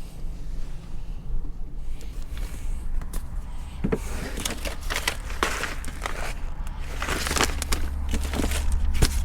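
Strong wind buffeting the microphone as a steady low rumble, with scrapes, clicks and knocks of gear being handled from about four seconds in.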